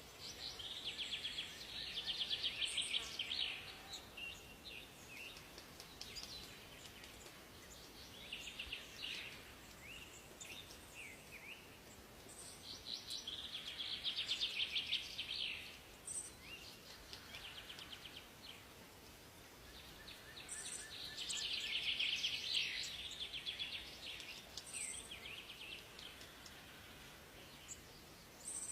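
A songbird singing long, rapid, trilling song phrases, one about every eight seconds, with shorter chirps and calls between them over a faint steady forest hiss.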